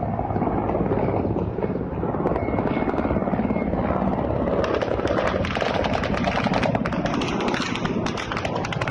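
Low-flying attack helicopters passing, with the rapid chop of the rotor blades over a steady rumble; the blade beat grows sharper about halfway through.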